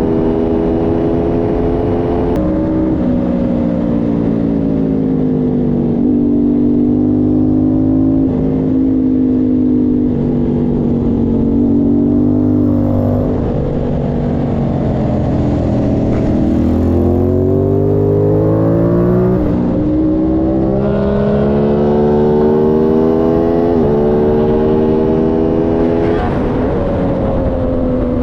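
Aprilia Tuono 660's parallel-twin engine under hard riding on track. Its pitch climbs and drops sharply at each gear change, sinks as the bike slows about halfway through, then climbs again, with wind rushing throughout.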